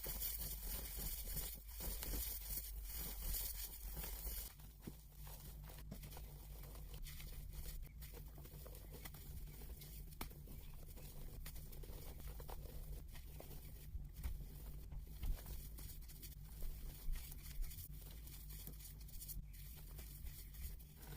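Blocks of gym chalk being crushed and crumbled by hand, a dense crunching and crackling played at double speed, with a few sharper cracks in the second half. The sound changes character about four seconds in as one clip gives way to another.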